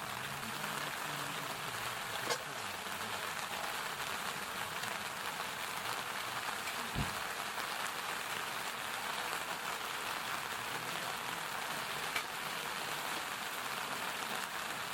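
Steady rushing of river water, an even hiss, with two sharp clicks and a short low thump about seven seconds in.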